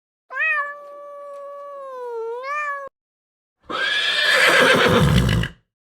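Two animal calls: first a long pitched call, rising at the start and again at the end, that cuts off abruptly, then after a short gap a harsher, rougher call that is the louder of the two.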